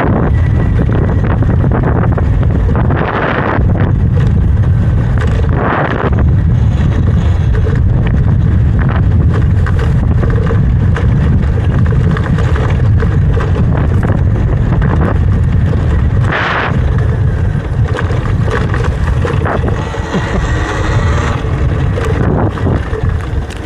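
Heavy wind buffeting on the microphone of a rider moving along on a Talaria electric dirt bike, over the bike's running and tyre noise, with a few short louder rushes.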